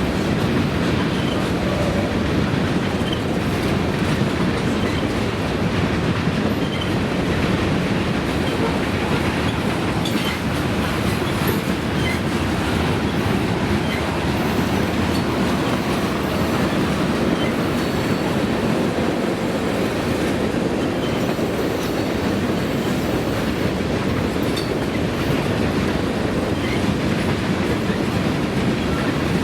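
Freight train rolling steadily past, its cars' wheels clattering over the rails in a continuous rumble.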